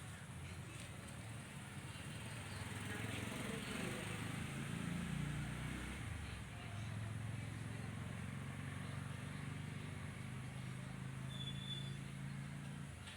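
A low, steady engine hum, such as a vehicle running nearby, growing a little louder about four seconds in, with faint voices in the background.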